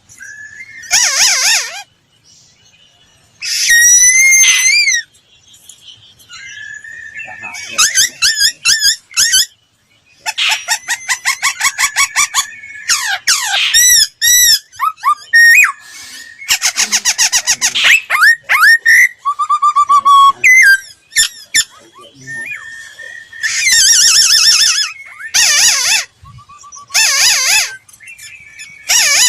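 Laughingthrush singing a long, varied song of loud whistled phrases, sliding notes and rapid trills, broken by short pauses.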